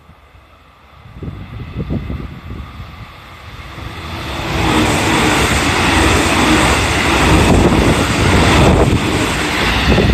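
A 313 series electric multiple-unit train approaching and passing close by. Its running noise rises about four seconds in and stays loud.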